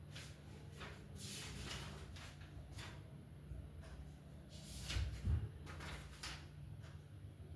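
Faint, scratchy strokes of writing on a board, with a couple of soft knocks about five seconds in, over a steady low electrical hum.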